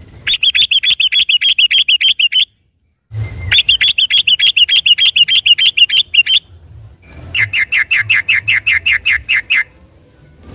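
Yellow-vented bulbul (trucukan) singing loud, fast trills of rapidly repeated notes, the 'ropel' style. The song comes in three bouts of two to three seconds each, and the last bout is lower and slower.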